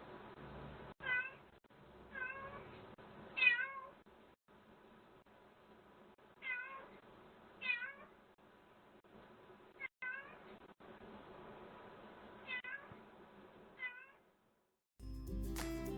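Cat meowing, about eight short meows with pauses between them, picked up by a video doorbell's microphone with thin, muffled sound. Music starts in the last second.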